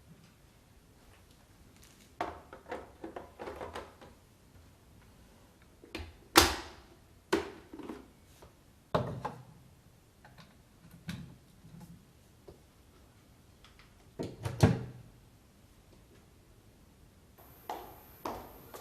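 Plastic clicks, knocks and thuds from handling a Kärcher K 65 Plus cordless sweeper, coming in irregular clusters. The loudest knock is about six seconds in. The brush is not running.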